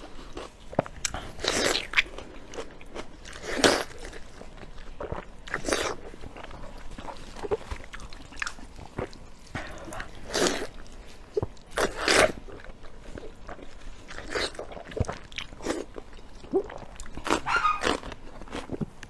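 Close-up eating sounds: a person biting and chewing fatty pork (jiguan you, pork mesentery fat), with wet mouth smacks throughout and a louder bite every two to four seconds.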